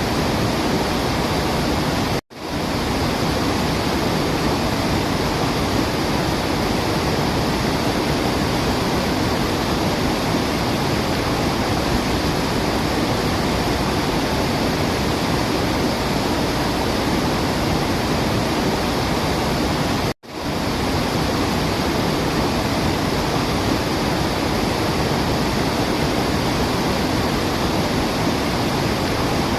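Steady, even rush of falling water. It cuts out abruptly to silence twice, about two seconds in and again about twenty seconds in, and swells back up within half a second each time.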